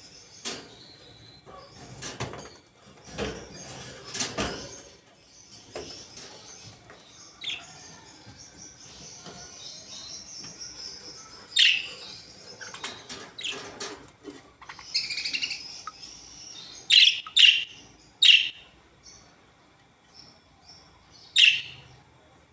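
Budgerigars chirping and warbling, with a stretch of steady high chatter and several sharp, loud chirps in the second half. A few short rustling strokes in the first seconds.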